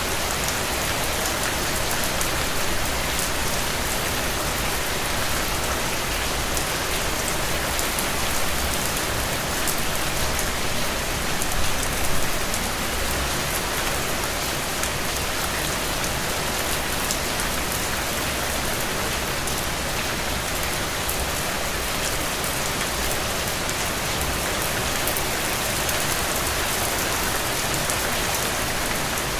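Heavy, steady rain falling on the ground and puddles, a dense even hiss with scattered drop splashes.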